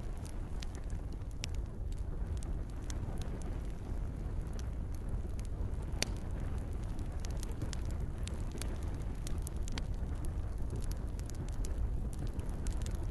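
Campfire crackling: irregular sharp pops and snaps, one loudest about six seconds in, over a steady low rumble and the soft hiss of rain.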